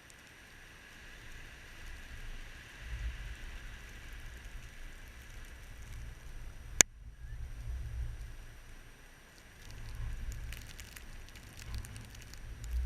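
Blizzard wind gusting against the microphone in uneven low rumbling buffets, with a faint hiss early on. A single sharp click sounds about two-thirds of the way through, and light ticks are scattered near the end.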